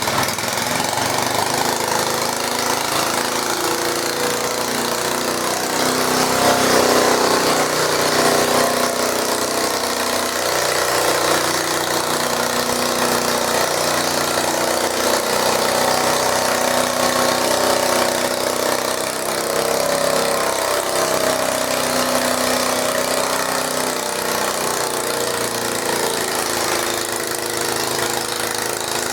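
Garden tractor's engine running steadily, its pitch wavering up and down, a little louder about six to eight seconds in.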